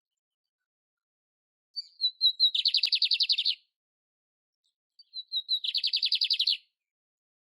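Canary (canário império) singing two phrases, each a few short high notes running into a fast, even trill about a second long.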